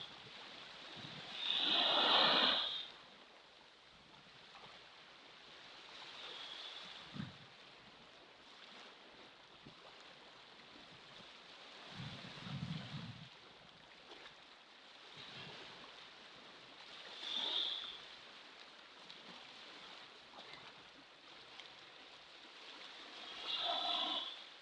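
Ocean waves: a steady wash of water with a few louder surges, about two seconds in, around the middle and near the end.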